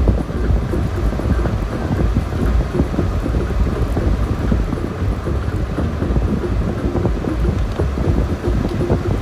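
Steady road and tyre rumble of a car driving on a slushy highway, heard from inside the cabin.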